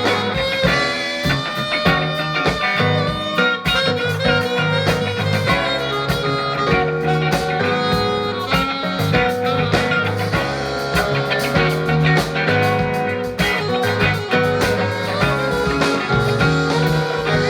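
Band music led by guitar, bluesy in feel, over drums keeping a steady beat.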